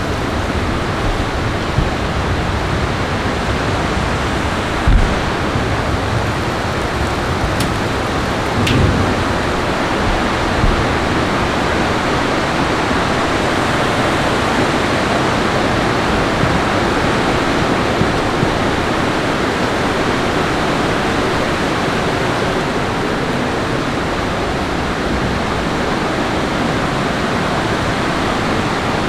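Heavy rain in a thunderstorm, a steady loud rush with a few brief low thumps.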